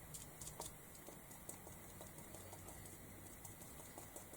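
Faint, irregular soft tapping and dabbing: a cut piece of sponge pressed onto an ink pad and dabbed along the edges of a canvas.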